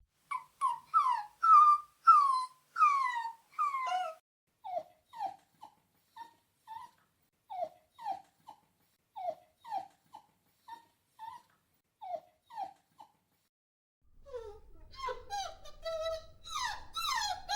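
Puppies whining: a few loud, high cries that fall in pitch, then a long run of shorter, quieter whimpers, about two a second. Near the end come denser, overlapping whines.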